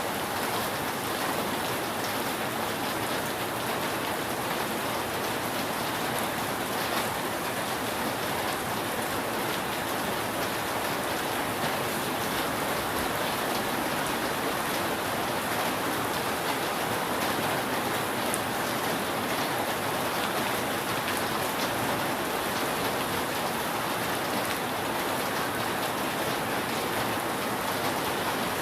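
Steady rain falling on a roof: an even hiss with scattered faint drop ticks.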